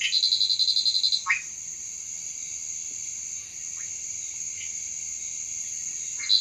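A small male tree frog calling: a rapid pulsed trill lasting about a second near the start, followed by a short falling chirp, with the next trill starting at the end. This is his advertisement call to attract a female. A steady high insect drone runs underneath.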